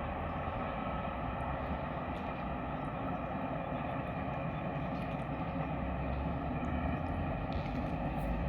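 Train running: a steady rumble with a steady whine held at several even pitches.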